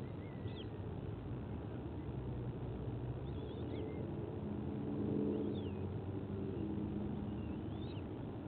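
Steady low outdoor rumble with a droning, engine-like hum that swells about five seconds in and fades, and a few faint, high, short chirping bird calls scattered through.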